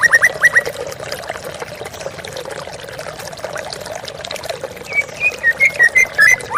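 Waterfall water pouring and splashing steadily, with a songbird calling over it: a quick run of short falling whistled notes at the start, and a series of short chirps again from about five seconds in.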